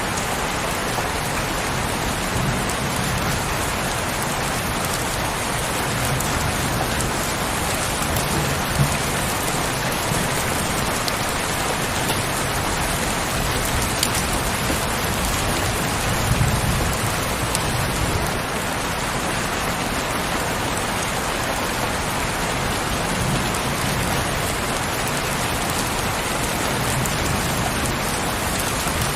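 Heavy rain falling steadily, a dense hiss of drops with a few louder individual drop hits.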